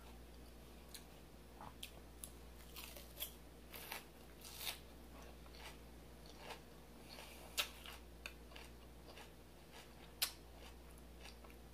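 Close-miked chewing of a mouthful of salad: faint, irregular crunches and wet mouth clicks, with a few louder crunches scattered through.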